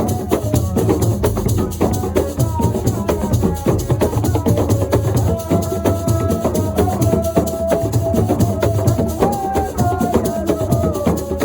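Assiko music: fast, dense percussion of drums and shaken rattles, with a held melodic line entering about five seconds in.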